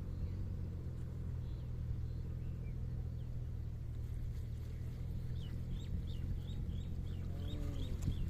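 A motor running with a steady low hum. About five seconds in, a bird starts calling a row of short, high chirps, about three a second.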